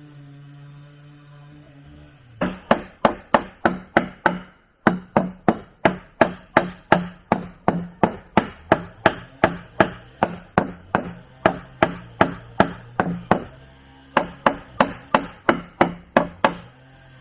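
Rapid, even strikes of a tool on wood, about three a second, in three runs broken by short pauses about 5 and 14 seconds in.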